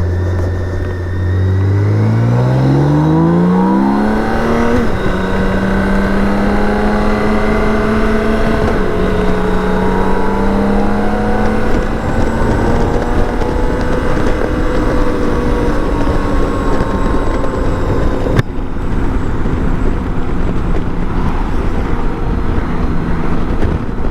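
BMW K1600 GTL's inline six-cylinder engine pulling up through the revs for about four seconds, then running at a steady cruise, with wind rushing over the microphone. A sharp click comes about eighteen seconds in, after which the upper hiss drops away.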